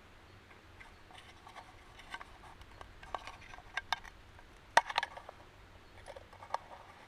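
Irregular light clicks and taps of small objects being handled, with a sharper click a little under five seconds in.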